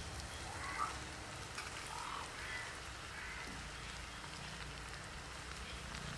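Faint steady sizzle of sliced onions frying in oil in a wide metal uruli (a traditional Kerala cooking pan), while sliced tomatoes are tipped in.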